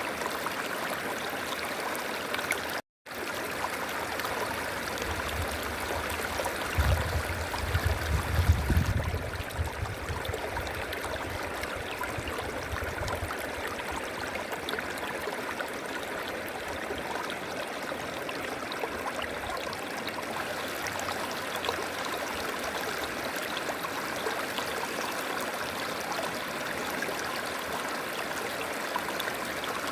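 River water flowing and rushing steadily. The sound cuts out completely for a split second about three seconds in, and a low rumble swells in underneath between about five and thirteen seconds, loudest around eight seconds.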